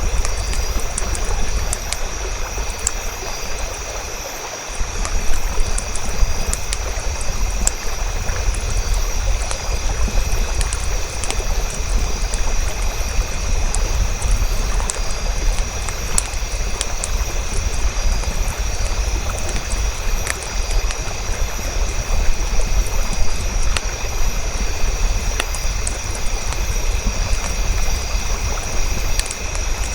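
Campfire burning: many small crackles and pops over a steady low rumble and hiss.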